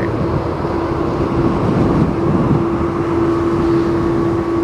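Strong typhoon wind buffeting the microphone as a loud, gusty low rumble, with a steady low hum running underneath.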